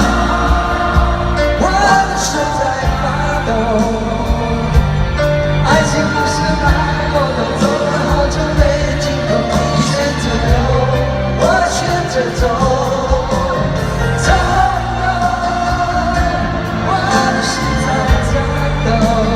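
Live pop-rock concert music: a full band playing while a singer holds long, wavering notes, recorded from the audience in a large arena.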